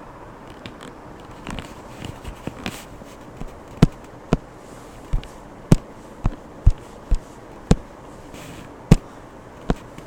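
A series of sharp knocks, sparse at first and then about ten loud ones at irregular spacing of roughly half a second to a second over the last six seconds.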